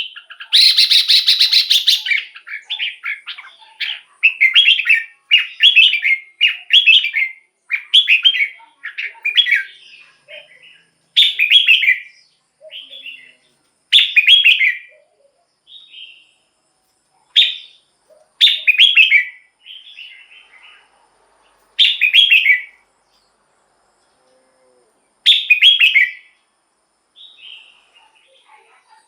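Red-whiskered bulbul singing loudly: a string of short, bubbling, whistled phrases about a second apart, with a pause of a few seconds near the end.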